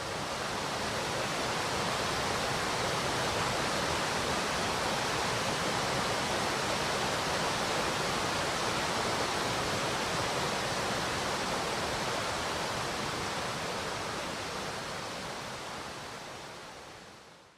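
Rapids of a fast-flowing mountain stream: a steady rush of water that fades out over the last few seconds.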